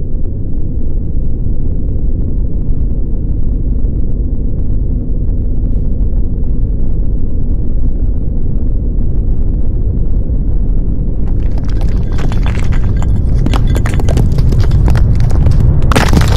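Loud, deep, steady rumble, with a rattling, crackling clatter joining about eleven seconds in and growing strongest near the end.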